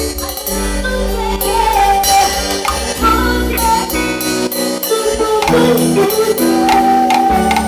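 Cumbia played live by a band: a steady beat of drums and percussion under bass and a melody line.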